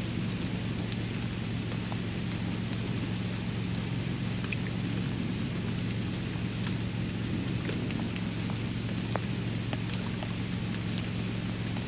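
Steady rain falling around a backyard pond, with scattered single drops ticking close by. A steady low hum sits underneath.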